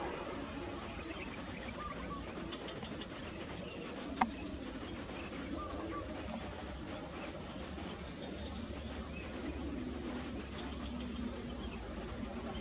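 Steady high-pitched drone of an insect chorus, with a sharp click about four seconds in and a few short high chirps in the middle and at the end, the last being the loudest.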